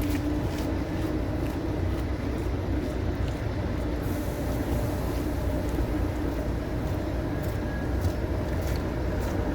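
Tampere city tram running through a tunnel: a steady rail rumble with a low hum and a few scattered clicks.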